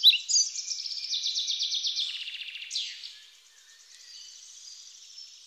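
Birdsong: high, rapid trills that fade away over the first few seconds, with one sharp downward-sweeping note about three seconds in.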